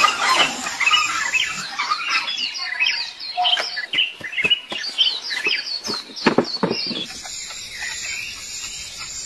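Birds chirping and calling: many quick, high, falling chirps in rapid succession, thinning out after about seven seconds.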